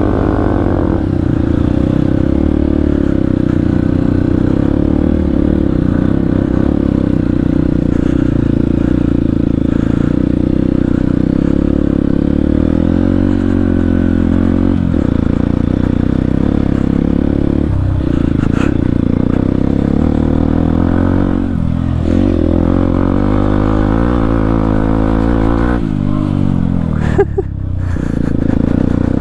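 Motorcycle with a full-system aftermarket exhaust and no dB killer, running under throttle on a muddy trail, the engine note rising and falling with the throttle. Near the end the engine drops back briefly before picking up again.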